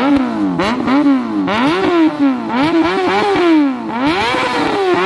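Honda CBR600 sport bike's inline-four engine being revved hard, its high-pitched note climbing and dropping over and over, about once a second.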